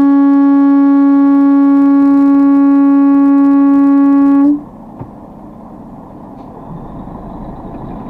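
A vehicle horn held in one long, loud, steady blast on a single note, cutting off abruptly about four and a half seconds in, sounded to make another driver move out of the way. After it, steady engine and road noise.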